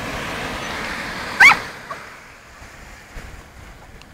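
A dog gives one short, high-pitched bark about a second and a half in, over the wash of surf breaking on the beach.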